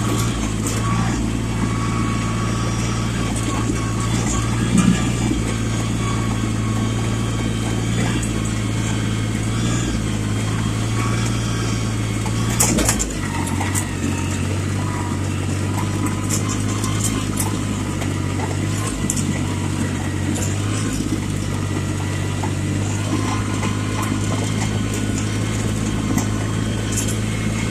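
Yanmar compact tractor's diesel engine running steadily, with light rattling. About halfway through there is a brief clatter, and the engine note drops a little and then holds.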